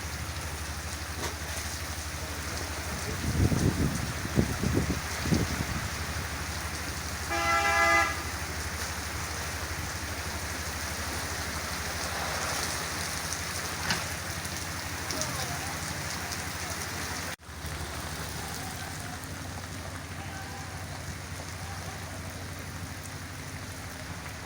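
Steady rain falling, with a few low thumps a few seconds in. A short horn toot sounds about seven seconds in.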